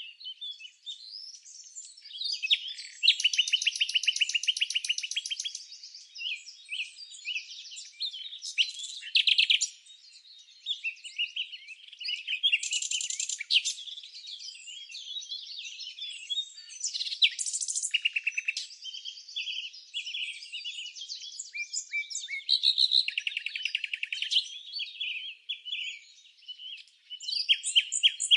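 Small birds chirping and singing in a busy, overlapping chorus of high chirps and fast trills, with no real pauses.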